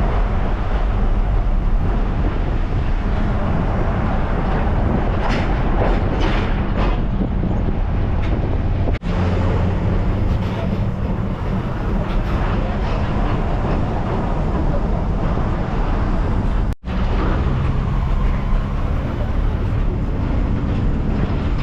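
Steady road noise inside a moving vehicle: engine and tyre hum with a low drone. The sound drops out very briefly twice, about nine and seventeen seconds in.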